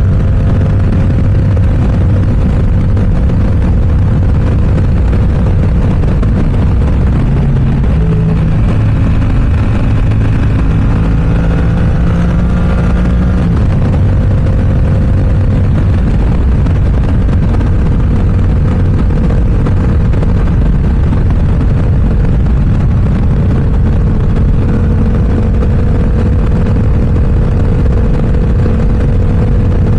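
Yamaha R7 motorcycle engine through an aftermarket M4 exhaust, running loud and mostly steady at cruising speed. The pitch changes about eight seconds in, then climbs and drops back about thirteen seconds in, as with a throttle change and gear shift.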